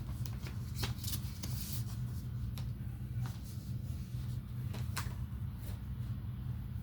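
Plastic DVD cases being handled: a few scattered clicks and rustles over a steady low hum.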